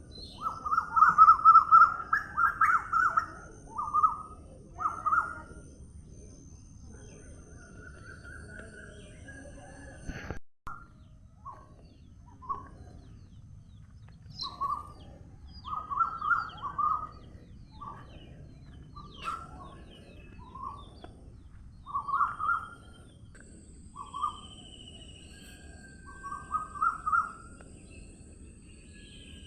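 Birds calling: short calls repeated in clusters throughout, with a thin high faint tone in the background and a brief break about ten seconds in.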